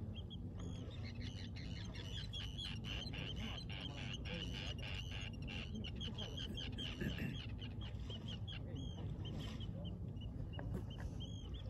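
A bird calling in a rapid run of short, high notes, several a second, thinning out over the last few seconds. Underneath is a steady low rumble.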